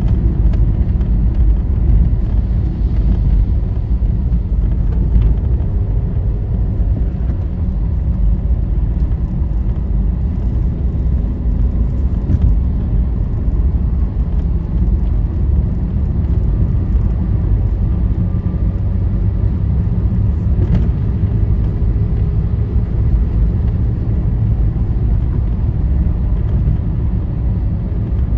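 Steady low rumble of a vehicle's engine and tyres heard from inside the cabin while cruising on a highway.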